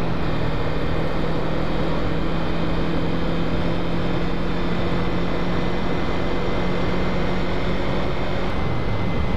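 Kawasaki Ninja parallel-twin motorcycle engine running steadily at cruising speed, with an even rushing noise under it; the engine note shifts slightly near the end.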